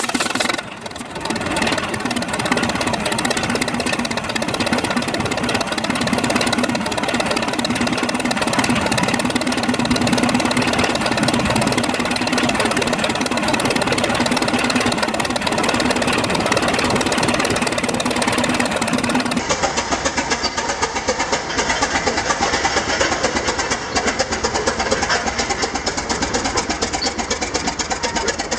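Big old Holt engine running at a steady, rapid beat after a few sharp clicks near the start. About two-thirds of the way through, the sound cuts abruptly to another engine running with a similar even beat.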